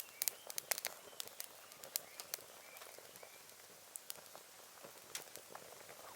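Firewood burning in a small V-shaped steel fire stand, crackling with irregular sharp pops. The pops come thickest in the first second or so and again near the end.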